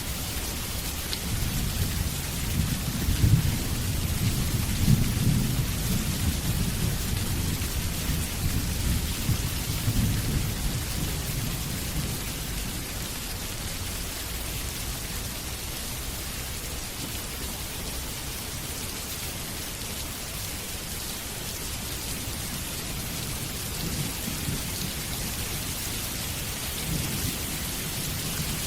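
Steady rain with rolling thunder: a long low rumble in the first dozen seconds and a fainter one near the end.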